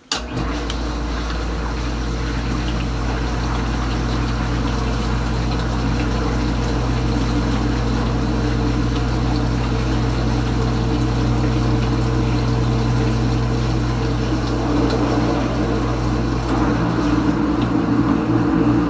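Kenmore Ultra Wash 3 dishwasher's pump motor starting suddenly and then running steadily with a low hum, water rushing through the tub.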